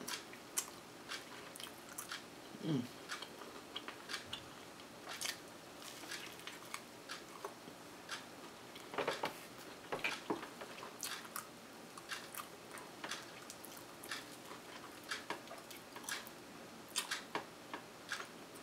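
A person biting into and chewing a toasted-waffle ice cream sandwich close to the microphone, with many short, sharp mouth sounds scattered throughout.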